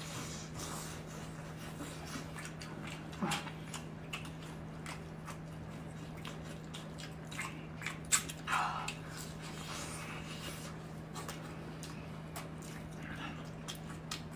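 Close-up chewing and biting of pan-fried stuffed pies, with many small wet mouth clicks and smacks and a couple of brief louder mouth sounds, over a steady low hum.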